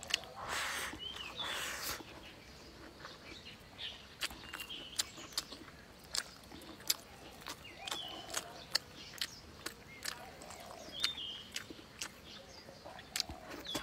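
Close-up eating sounds of a person chewing rice and meat: a noisy bite in the first two seconds, then wet mouth clicks and smacks. A few short bird chirps sound in the background.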